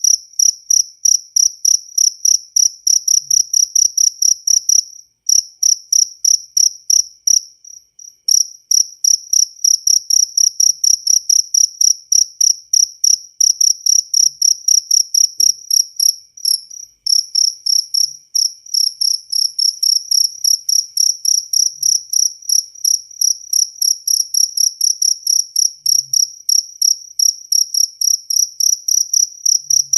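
Jaliteng cricket chirping: a steady run of high-pitched chirps, several a second, that breaks off briefly a few times.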